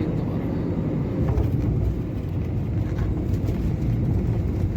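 Airliner cabin noise during landing: a steady, loud, low rumble of jet engines and airflow heard from inside the passenger cabin.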